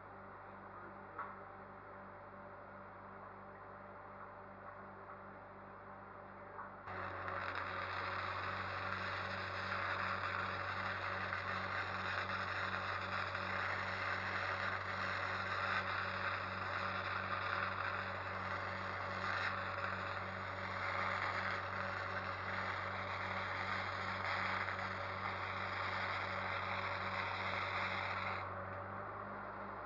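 Arc welding on the cracked steel boom of a New Holland B95 backhoe: a loud, dense, continuous noise over a low hum, starting about seven seconds in and lasting about twenty seconds before stopping near the end. Only a low steady hum is heard before it begins.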